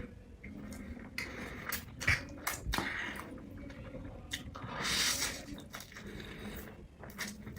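Close-miked eating sounds: noodles being chewed with wet, sticky mouth clicks and smacks, and a longer noisy burst about five seconds in.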